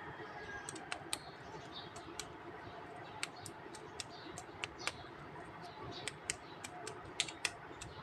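Small plastic toy figures being handled and set down, giving a string of light, irregular clicks and taps, about two or three a second.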